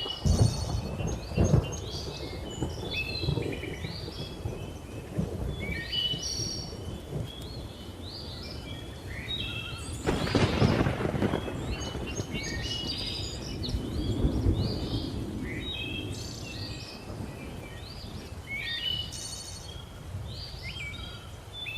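Thunder rumbling, with a louder roll about ten seconds in and smaller swells near the start and around fourteen seconds, under a dense chorus of jungle birds calling and chirping.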